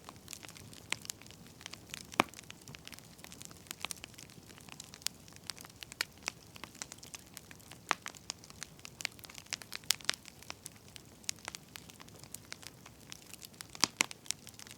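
Burning firewood crackling: irregular sharp pops and snaps over a faint hiss, with a few louder pops about two seconds in and near the end.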